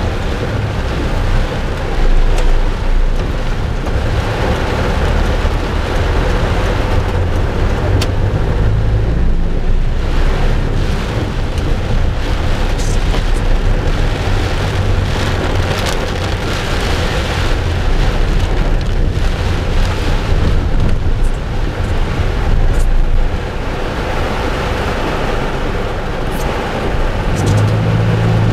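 Heavy thunderstorm rain pouring down, a continuous loud hiss, with a steady low rumble underneath.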